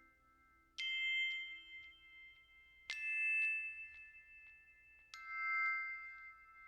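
Background music: three struck, bell-like chime notes about two seconds apart, each ringing on and slowly fading.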